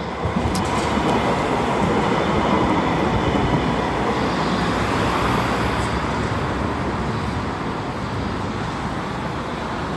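Tram running along the rails into the stop: a steady rumble and rush of wheels on track that swells over the first couple of seconds and eases slightly toward the end.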